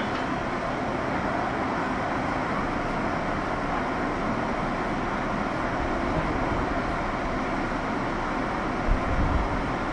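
Steady interior noise of a JR 201 series electric commuter train car (motor car MoHa 201), with a low bump and heavier rumble about nine seconds in.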